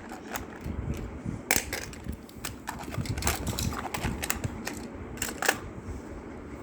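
Small die-cast toy cars clicking and clacking against the plastic of a Hot Wheels toy truck as they are fitted into its car compartments. There are irregular taps, with two louder knocks about a second and a half in and near the end.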